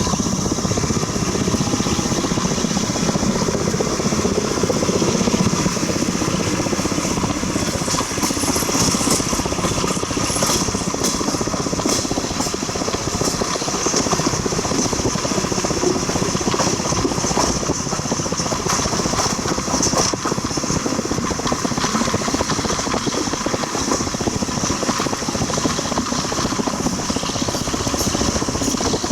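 A train running along the track, heard as a steady rumble and rattle of wheels on rails, with faint rhythmic knocking.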